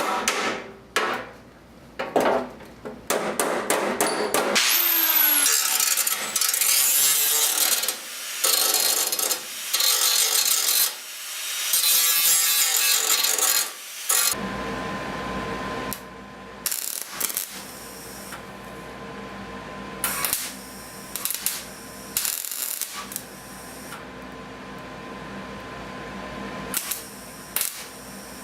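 Metalwork on a steel tractor fender: hammer blows, then a power tool running in several long, loud bursts. After that comes a quieter stretch with a steady high tone and scattered clicks.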